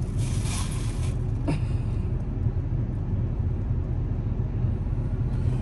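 Steady low rumble of a car engine idling, heard from inside the cabin, with a light tap about a second and a half in.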